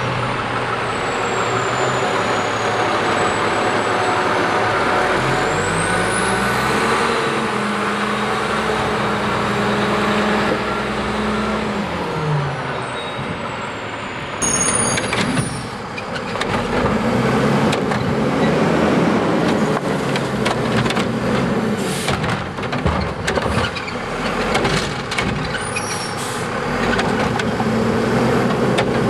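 Garbage truck diesel engine running, revving up and holding high for several seconds as for the hydraulics, then dropping back. In the second half, repeated clattering and bangs as of a cart being dumped and refuse falling into the hopper.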